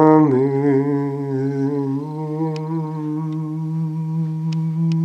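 A lone man's unaccompanied voice holding the final long note of a Gregorian plainchant hymn, most likely the closing Amen. The pitch steps down once just after the start, then holds steady for about five seconds.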